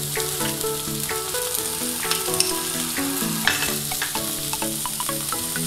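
Chopped vegetables sizzling in oil in a wok, with a wooden spatula scraping and knocking against the pan now and then as they are stirred. Soft background music with a stepping melody plays underneath.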